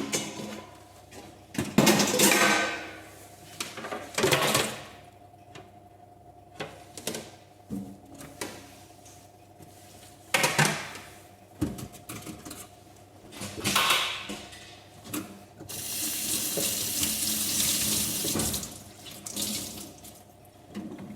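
Water from a tap splashing into a sink in short bursts, then a steady run of water for a couple of seconds near the end.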